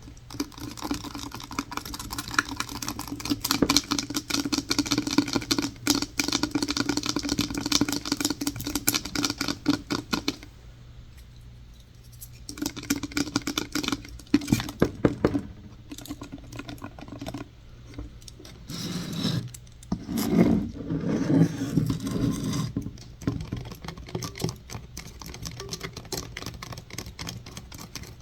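Rapid ASMR tapping and scratching on hard objects, a dense run of quick taps with a quieter gap about eleven seconds in, then more taps and scratching.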